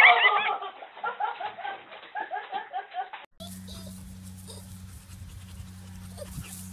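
People burst out in shrieking laughter, settling into rhythmic peals of laughter that stop abruptly after about three seconds, giving way to a steady low hum.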